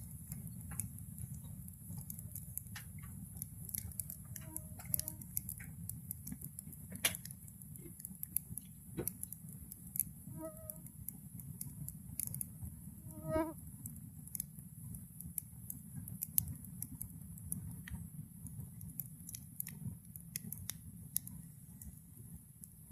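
Small wood bonfire crackling, with irregular sharp pops and snaps.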